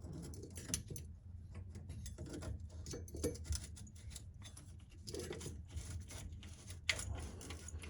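Light clicks and knocks of sink drain trap pieces being handled and fitted back together under the sink, with a sharper click about seven seconds in.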